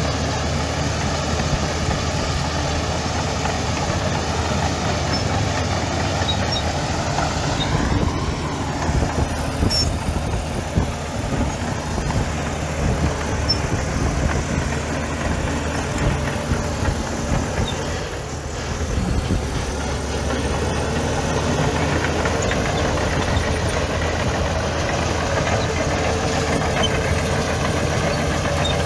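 Heavy diesel engine of earthmoving machinery running steadily, with a stretch of irregular knocks and clanks in the middle and a brief drop in engine note before it settles back.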